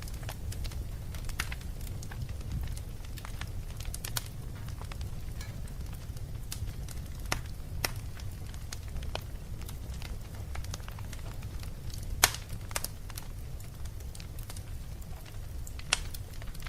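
Fire burning in a fireplace: a steady low rumble with scattered crackles and pops, one sharp pop about three-quarters of the way through.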